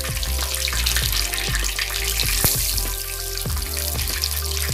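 Background music over the steady sizzle and crackle of spice-coated raw banana pieces frying in hot oil in a kadai, as more pieces are dropped in.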